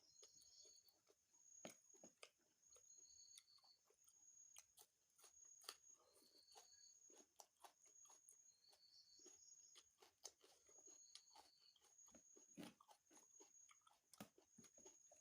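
Quiet close-up chewing and crunching of food, with irregular wet clicks and crunches, as from salad and chicken curry with rice. A faint high chirp repeats about every second and a half behind it.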